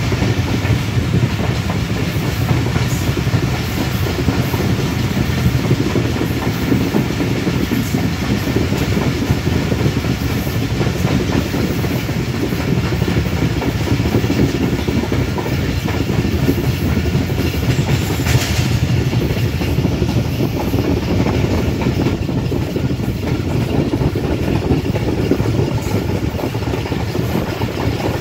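Passenger train moving along the track: a steady rumble with the clatter of wheels on the rails, and a short brighter hiss about two-thirds of the way through.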